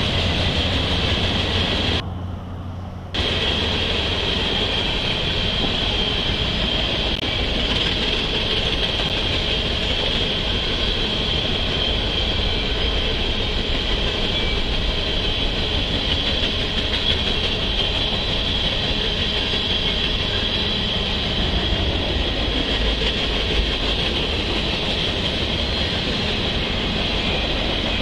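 Freight train of covered hopper cars rolling past, a steady noise of wheels on rail heard over a railway webcam's live stream. The sound drops out briefly about two seconds in, then resumes.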